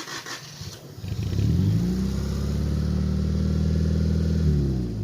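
A car engine revving up about a second in, held at steady high revs for about three seconds, then dropping back near the end.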